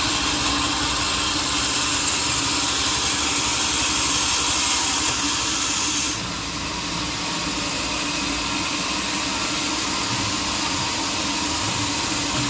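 Sawmill machinery running steadily, with an engine-like hum under a high hiss that stops about six seconds in, leaving the machine running slightly quieter.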